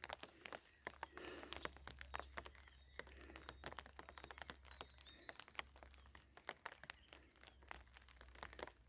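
Near silence: faint, irregular small clicks and crackles over a low steady hum.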